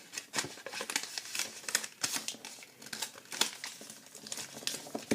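A sheet of origami paper being turned over and folded by hand: irregular crinkles and rustles of the paper.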